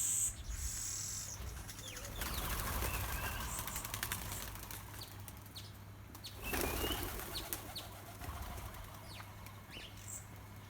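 Wings of small birds, sparrows and weavers, fluttering at a feeder in two flurries, one about two seconds in and one past the middle, with short high chirps in between.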